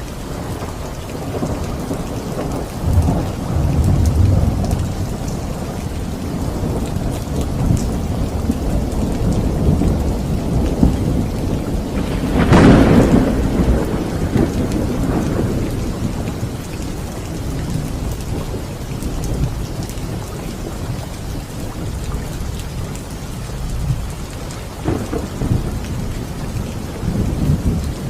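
Steady rain with rolling thunder: low rumbles early on, a sharp crack of thunder about halfway through that rolls away over a few seconds, and more rumbles near the end.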